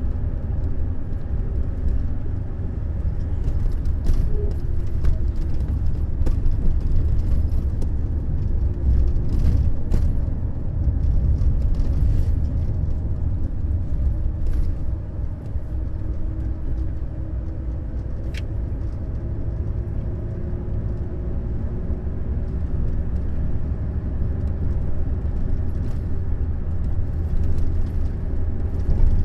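Neoplan Skyliner N 1122/3C double-decker coach running on the road: a steady deep engine and road rumble, with a faint engine tone that drifts slowly in pitch. A few short clicks and rattles come through now and then.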